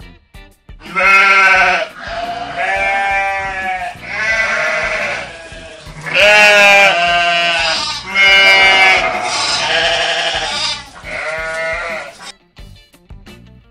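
Sheep bleating: about seven long, wavering bleats of roughly a second each, one after another.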